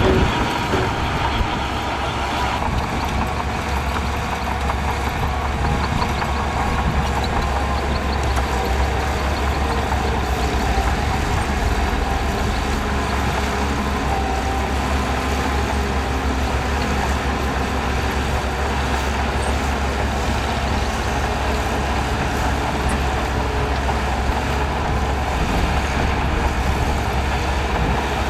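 Heavy diesel engine of a bulldozer running steadily under load as it pushes sand, a constant low rumble, with a few knocks in the first second or so.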